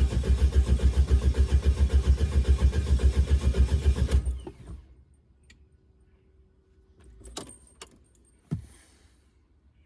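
Volkswagen BEW 1.9 TDI diesel engine in a Jeep TJ Wrangler being cranked by the starter after it stalled, an even chugging of about seven pulses a second that stops about four seconds in. A few clicks and one sharp knock follow.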